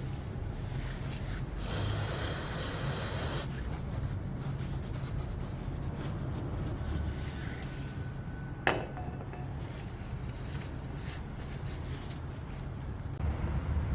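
Handling noises from oil-change work: a rubbing, hissing noise for a couple of seconds, then a single sharp metallic clink with brief ringing over a low hum.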